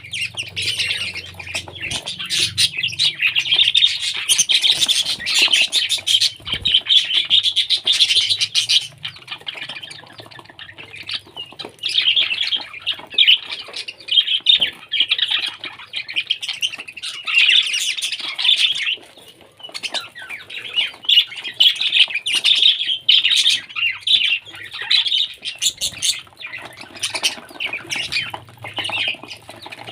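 Parrots chattering and squawking in a dense, busy stream of shrill calls, with short lulls about ten and twenty seconds in.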